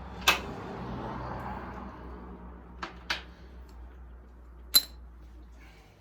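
Sharp metallic clinks and clanks of parts or tools being handled: one hard clank just after the start with a hiss trailing off, two lighter clicks around the middle, and the loudest ringing clink near the end, over a steady low hum that stops just before the end.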